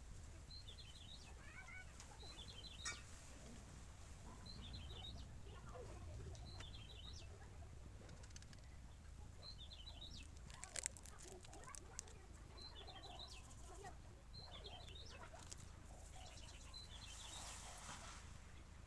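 A small bird chirping in short twittering bursts that repeat every second or two, with a few sharp clicks about two-thirds of the way through.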